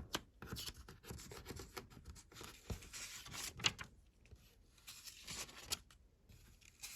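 Rustling and scraping of paper being handled, likely a Lego instruction booklet's pages being moved and turned, in irregular bursts with a few light knocks.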